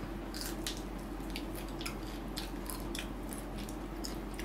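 Close-up mouth sounds of two people eating crispy-skinned roast chicken: irregular wet smacks and crunchy clicks, about three a second, over a low steady hum.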